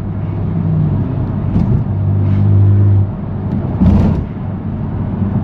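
BMW F80 M3 Competition's twin-turbo S55 inline-six, on a straight-pipe exhaust, droning under light throttle while driving. The note swells and then drops about three seconds in, and a brief rushing sound follows about a second later.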